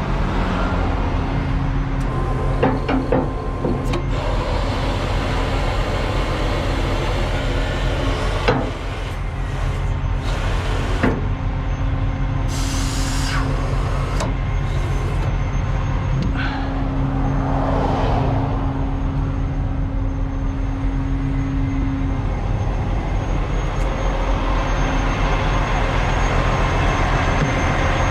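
Heavy truck's diesel engine idling steadily while the RGN lowboy trailer is lowered, with several short bursts of air hiss and a few knocks from the trailer's air and hydraulic gear.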